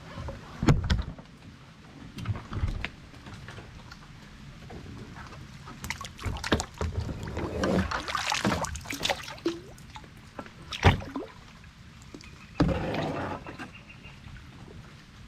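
Kayak being paddled: water splashing and dripping from the paddle, with several sharp knocks on the boat.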